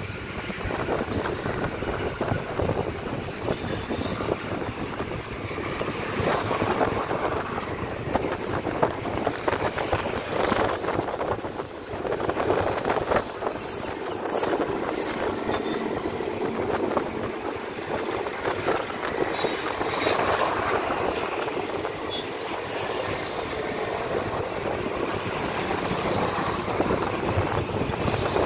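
Express passenger train with an electric locomotive running over an elevated steel rail viaduct: a continuous rumble and clatter of wheels on rails, loudest around the middle as the locomotive passes, with a few brief high squeals.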